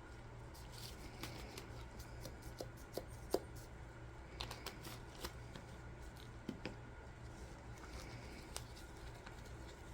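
Scattered light clicks and taps of small craft items being handled on a work surface, over a steady low hum.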